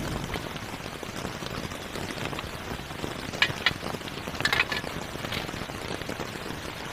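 Steady rain pattering on a tent, with a thin plastic carrier bag crinkling in hands in a few short rustles around the middle.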